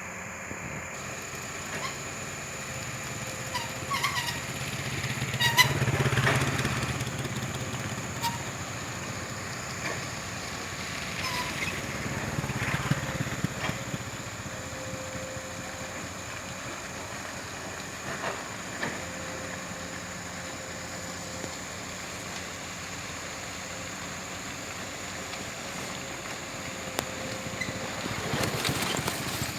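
Excavator's diesel engine running steadily and rising under load twice as the hydraulics work, with scattered metallic knocks and clanks from the bucket and arm.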